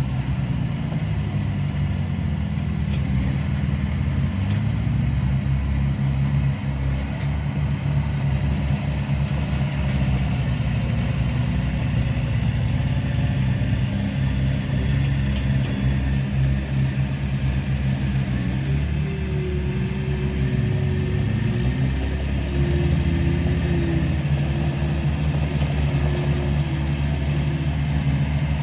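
Diesel engine of heavy earthmoving machinery running continuously, its pitch dipping and rising a few times.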